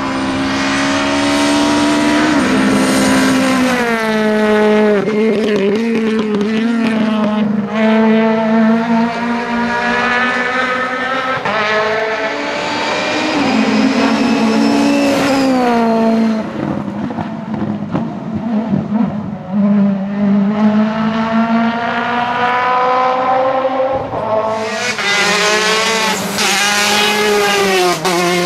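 Rally cars at full throttle, one after another: engines climbing in pitch and dropping sharply at each gear change, with the revs falling off at times as they slow.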